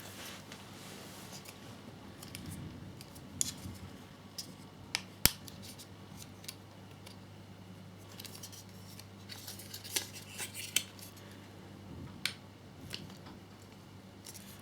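Plastic parts of a scale motorcycle model's fairing air intake being handled and pressed together: scattered light clicks and taps, the sharpest about five seconds in, over a faint steady hum.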